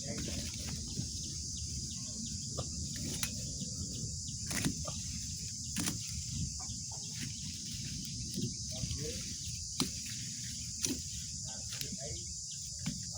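Steady high-pitched insect chirring, like crickets, over a low rumble, with scattered short clicks and knocks.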